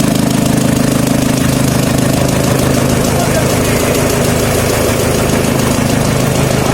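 Tractor engine running steadily at a constant speed, driving a chaff cutter, with an even low pulsing.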